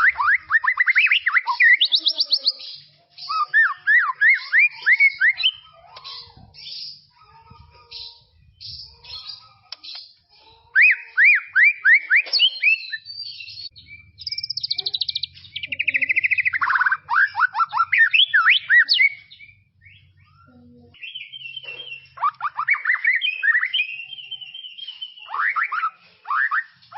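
White-rumped shama (murai batu) singing: phrases made of rapid runs of sweeping notes, repeated with short pauses between them.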